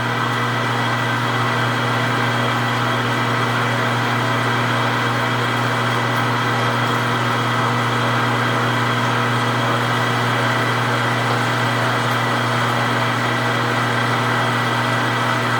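Precision Matthews 1640 metal lathe running under power feed, turning the outside diameter of a large cold-rolled steel blank at low spindle speed: a steady hum under an even hiss, unchanging throughout.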